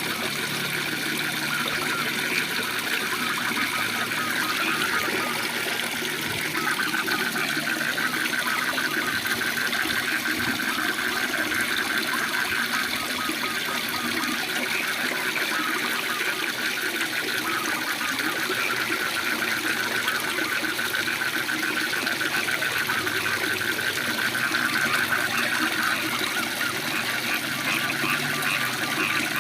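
Waterfall water running steadily, with a dense chorus of rapidly pulsing frog calls over it.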